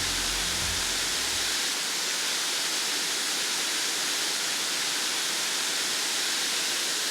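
Waterfall rushing as a steady hiss of falling water. Low music notes underneath stop about two seconds in.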